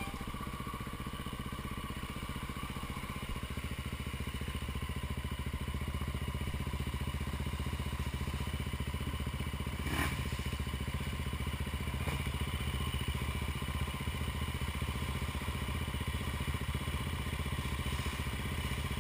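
An engine running steadily, with a sharp knock about ten seconds in and a fainter one about two seconds later.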